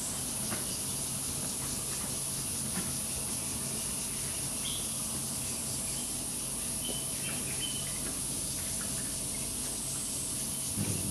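Steady high-pitched insect drone, with a low steady hum underneath and a few faint knocks. Just before the end the hum stops and a louder shuffling sound begins.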